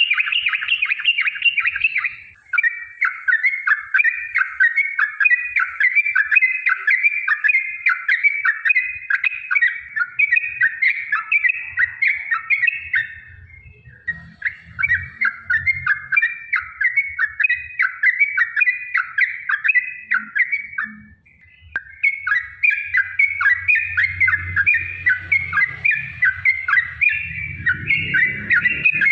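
Yellow-vented bulbul (trucukan) singing long runs of rapid chattering notes, each note short and falling, in a loud, nearly unbroken trill. The runs pause briefly about two seconds in, near the middle and about two-thirds of the way through.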